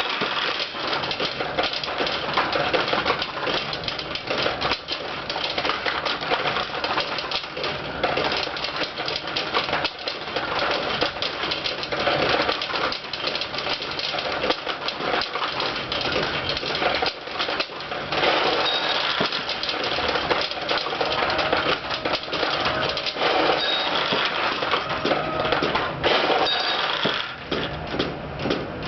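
Pachinko machine in play: a continuous, dense clatter of steel balls being fired and rattling down through the pins and into the tray.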